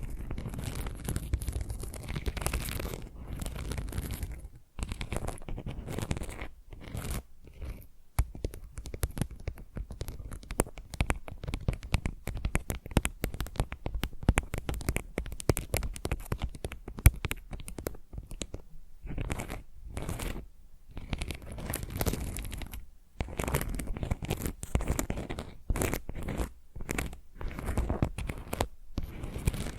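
Fingernails scratching and tapping on the rough back of a tile in quick, dense bursts of sharp little clicks and scrapes, with a few brief pauses.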